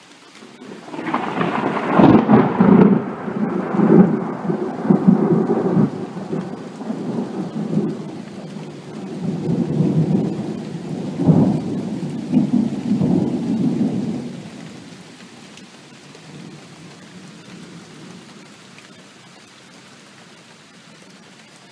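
Thunder rumbling: a long, rolling peal that builds about a second in, swells and cracks repeatedly for over ten seconds, then dies away, leaving steady rain.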